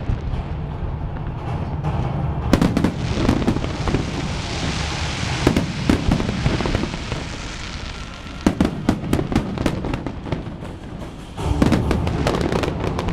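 Aerial fireworks bursting in rapid clusters of bangs, four volleys a few seconds apart, with a dense crackling hiss between the second and third volleys.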